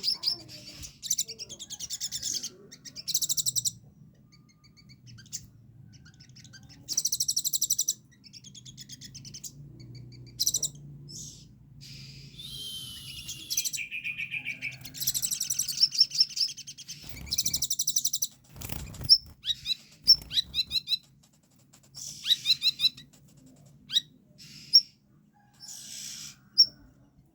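Olive-backed sunbird (kolibri ninja) singing in repeated bursts of rapid, high-pitched trills and sharp chirps, with short pauses between phrases and a lower, falling run of notes about halfway through. It is a trained songbird singing a song filled with learned phrases (isian).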